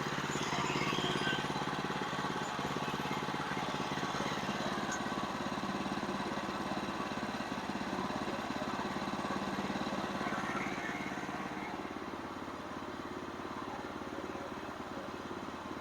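Portable sawmill's engine running steadily at a constant pitch, easing a little quieter after about eleven seconds.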